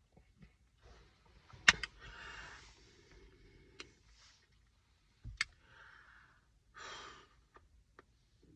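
A person breathing out in sighs, twice, with several sharp clicks and taps in between. The loudest tap comes a little under two seconds in.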